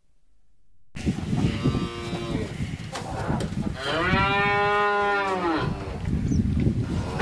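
Cow mooing: a shorter, fainter moo about a second in, then a long, louder moo from about four seconds that rises and falls in pitch, over a noisy background.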